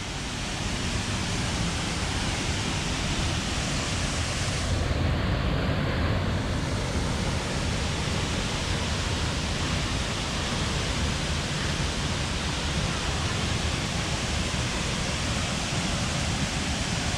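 Haew Suwat waterfall's falling water, a loud, steady rushing roar.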